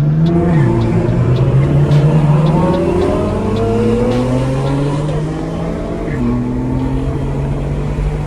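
A car engine under acceleration, its pitch climbing and then dropping sharply twice, about half a second in and again near six seconds, as it shifts up a gear.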